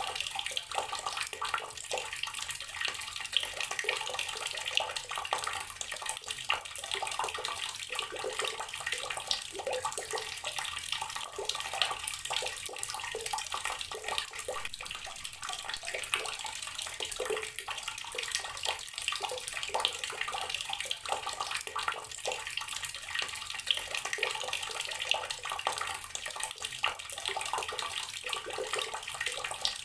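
Water running steadily from a tap and splashing into a basin or tub below, a continuous hiss with fine crackling splashes.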